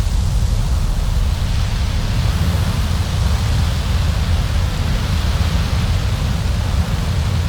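Winter storm wind blowing steadily, with a deep rumble underneath and a hiss on top.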